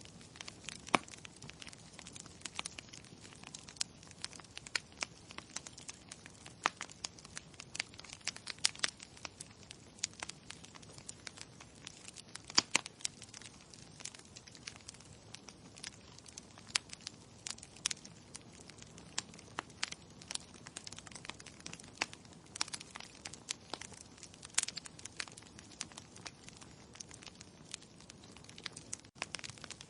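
Wood logs burning in a fireplace: irregular sharp crackles and pops, several a second, over a soft steady hiss of the flames.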